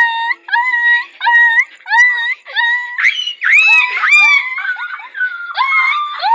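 A person imitating a dog in a high voice: about five short yelps, each turning up at the end, followed from about halfway by longer wavering whining howls.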